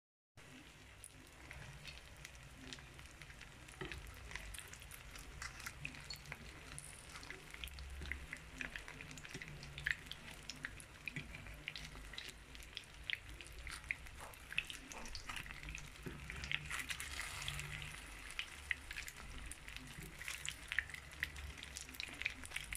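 Bourek pastry rolls frying in a little oil in a nonstick pan: a faint steady sizzle with scattered crackling pops, busier in the second half.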